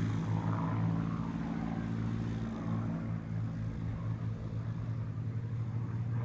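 Supermarine Spitfire Mk VIII's Rolls-Royce Merlin V12 engine in a fly-past, a steady deep drone that eases slightly in loudness as the aircraft moves off.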